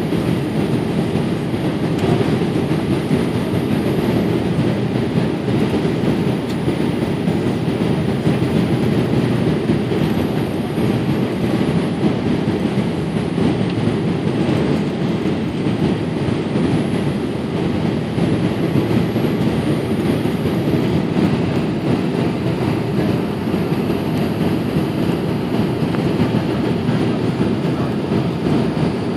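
Steady rumble of airflow and engines heard inside the passenger cabin of a Boeing 787-8 airliner.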